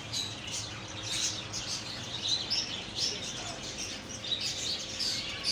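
Small birds chirping, with many short high calls overlapping one another.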